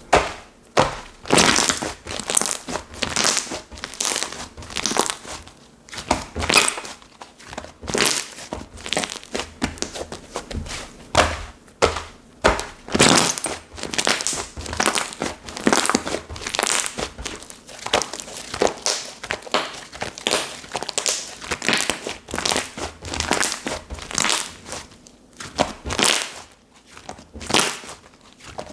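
Hands squeezing and kneading slime: a continuous string of crackling squishes and pops, roughly one or two a second.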